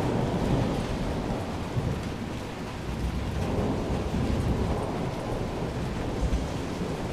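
Steady rain with a low, rolling rumble of thunder during a thunderstorm.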